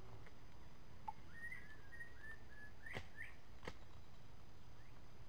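A songbird singing a quick run of short chirping notes for about two seconds, with two sharp snaps near the middle, under a steady outdoor hiss.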